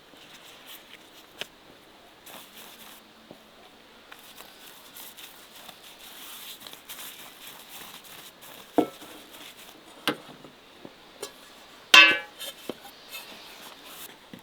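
Scattered light taps and clinks of utensils on cookware, with a sharper tap about nine seconds in and one loud ringing clink about twelve seconds in that dies away within half a second.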